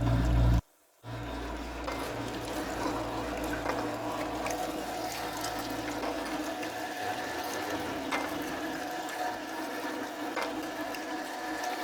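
XZW-22A-2 electric meat mincer (1.1 kW motor) running steadily: a constant motor whine over a grinding hiss, with a few faint clicks. A low hum fades out about halfway through, and the sound breaks off briefly just after the start.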